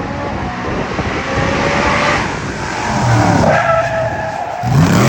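Vehicle engine revving up and down, with tires squealing in the middle; the engine pitch rises sharply near the end.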